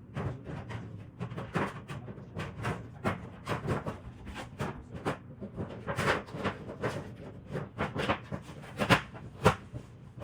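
An irregular run of short clicks and knocks, two or three a second, with two louder knocks near the end.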